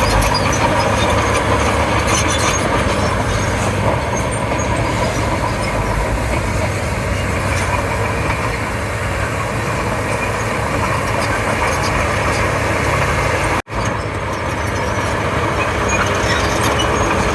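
Komatsu D31P bulldozer's diesel engine running steadily under working load, with a brief dropout in the sound about three-quarters of the way through.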